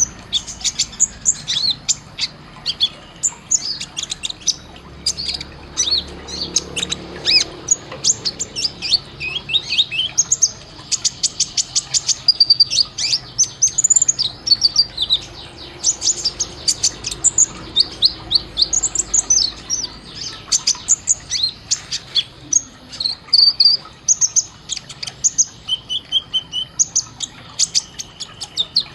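Kolibri ninja sunbird singing a fast run of sharp, high chirps and short trills, with barely a pause between notes.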